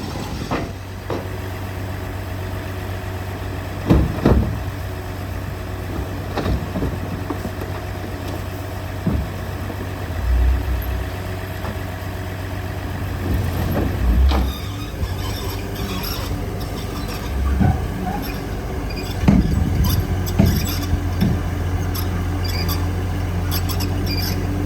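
Diesel engine of heavy earthmoving machinery running steadily at a low pitch, with several short clunks and, in the second half, high squeaks and clicks.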